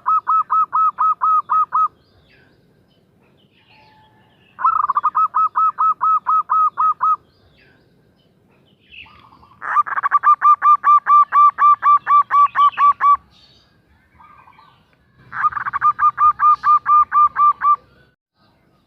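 Female zebra dove (perkutut) calling: four bouts of quick repeated cooing notes, about five a second, each bout lasting two to three seconds with short pauses between. The first bout is already under way at the start, and the last two are longer and louder.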